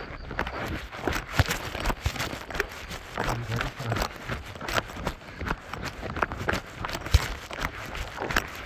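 Running footsteps on a trail, a series of uneven footfalls about two to three a second.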